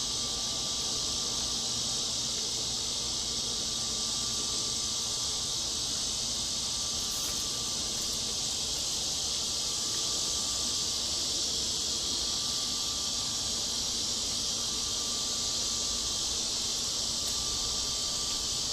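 Steady high-pitched insect chorus, a continuous buzzing drone with no change in level, under a faint low hum.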